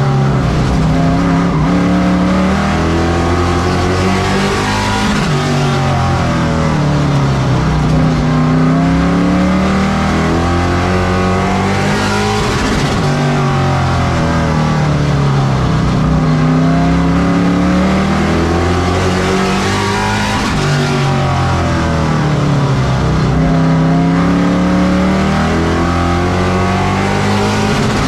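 Pro trucks racing on a short oval track. Their engines rise in pitch as they accelerate and fall away as they lift off, in a repeating cycle every several seconds, with more than one engine heard at once.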